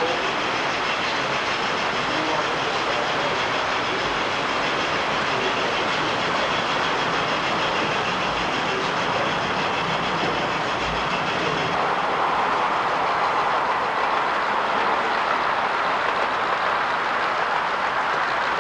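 Steady rolling noise of trains running on track, with a shift in tone about twelve seconds in.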